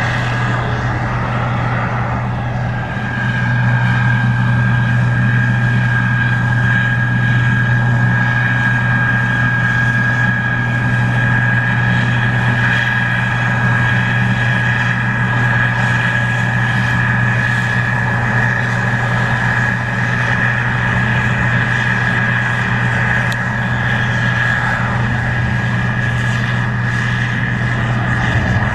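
Case IH 2144 Axial-Flow combine running steadily while harvesting corn: a loud, even diesel drone with a steady high whine over it.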